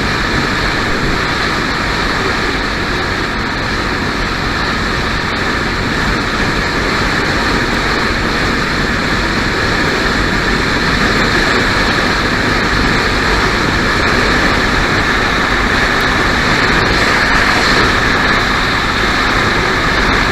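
Triumph Scrambler 400 X motorcycle riding steadily at highway speed, its engine running under a constant rush of road and wind noise that grows slightly louder in the second half.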